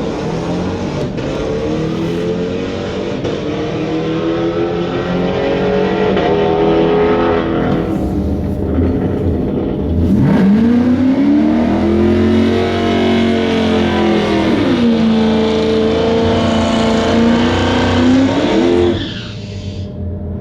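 Ford F-150 SVT's V8 revving hard during a burnout at the drag-strip start line. The revs climb and fall, hold high for several seconds over the second half, then drop away near the end.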